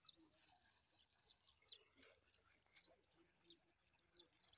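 Faint bird chirps: many short, high calls scattered through otherwise near silence.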